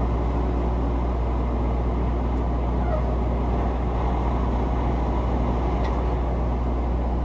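Steady low drone of a semi-truck's engine and road noise, heard inside the cab.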